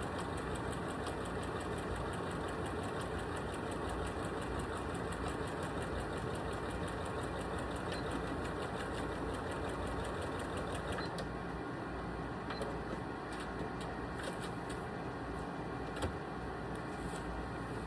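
Sewing machine stitching at speed through quilted fabric, its needle ticking in a fast, even rhythm. About eleven seconds in the steady rhythm stops, leaving a few scattered clicks over a fainter low hum.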